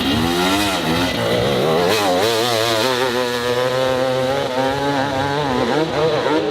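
Dirt bike engine revving hard under load on a steep hill climb, its pitch wavering rapidly up and down as the throttle is worked and the rear wheel grips and spins.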